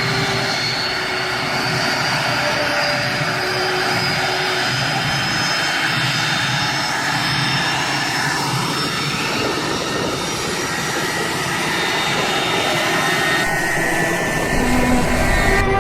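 Jet airliner engines running: a steady rush of noise with a faint high whine.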